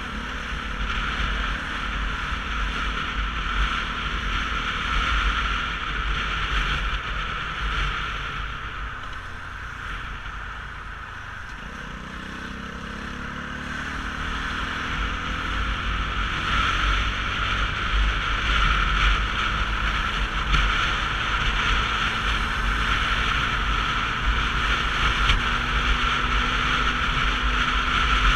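Wind buffeting the camera and road noise from a Sinnis Terrain 125cc motorcycle on the move. The sound eases off about ten seconds in, then an engine note rises steadily as the bike picks up speed again.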